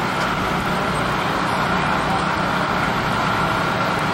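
Steady engine drone with a faint high whine over a low hum.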